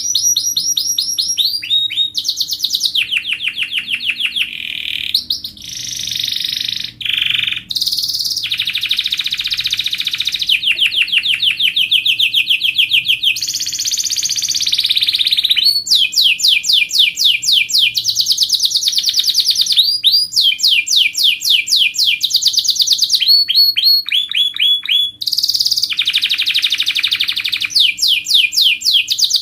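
Domestic canary singing a long, loud, unbroken song of rapid trills, switching to a new trill every second or two with only brief breaks.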